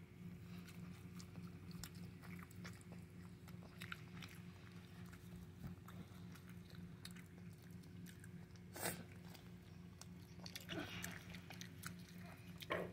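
A child chewing a burger close to the microphone: faint mouth sounds and small wet clicks, with a few louder bites about nine and eleven seconds in and again just before the end. A faint steady low hum lies underneath.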